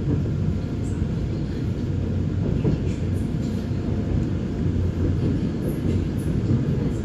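Gyeongui-Jungang line electric commuter train running, heard from inside the carriage as a steady low rumble of wheels on track.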